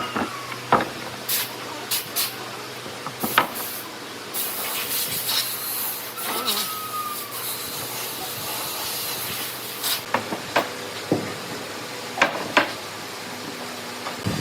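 Workshop handling sounds: scattered sharp knocks and clicks, with a stretch of hissing for several seconds in the middle.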